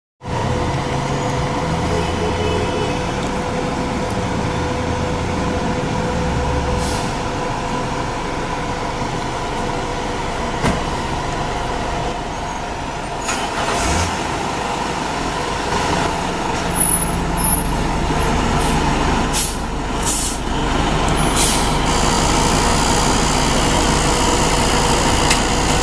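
Fire engine's diesel running, with several short air-brake hisses, the low engine rumble growing louder in the second half.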